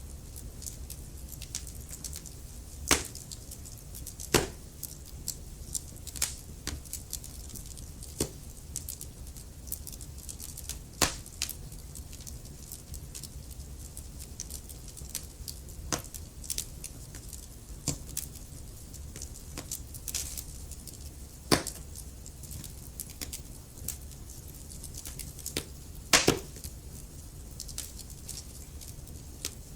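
Wood fire burning in a fireplace: a steady low rumble of the flames with constant small crackles and a few sharper, louder pops scattered through.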